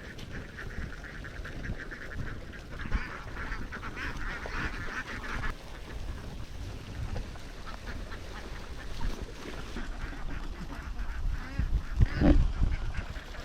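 A large flock of domestic ducks quacking, many calls overlapping into a chatter that is busiest in the first half. A single low thump comes near the end.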